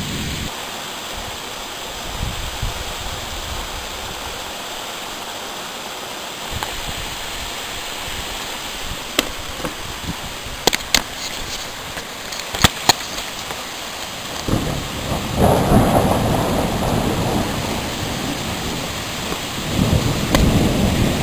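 Steady rain falling, with a few sharp clicks in the middle. About two-thirds of the way in, thunder rumbles for several seconds, and it rumbles again near the end.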